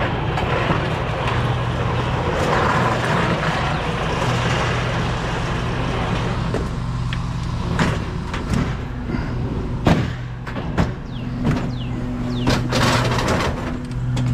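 Vehicle engine running with a steady hum. From about halfway through, a series of sharp knocks and clatters sits over it.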